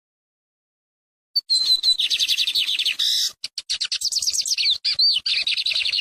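Sporophila seedeater song: after a silent second, a fast, run-on series of rapidly repeated chirping notes starting about a second and a half in, with a few whistled slurs, cut off abruptly at the end.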